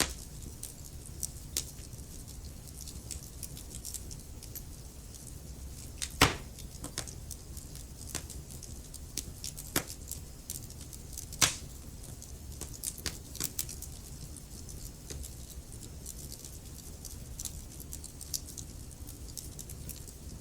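Wood fire crackling in a fireplace: a steady low rumble of burning with scattered sharp snaps and pops, two louder pops about six and eleven seconds in.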